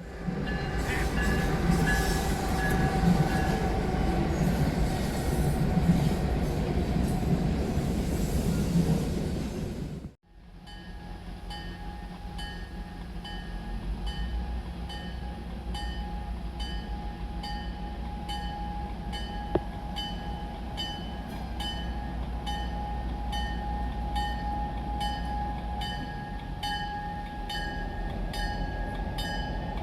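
A train running along the track with a steady rumble. About ten seconds in the sound cuts abruptly to a quieter passage, where a regular clicking comes about twice a second over a low rumble.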